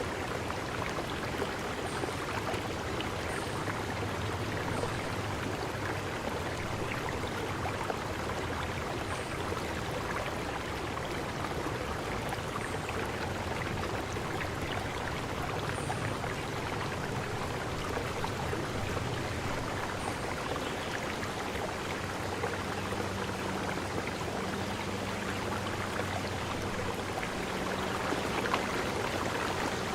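Steady rushing and babbling of flowing stream water, with a few faint, short high-pitched notes every few seconds.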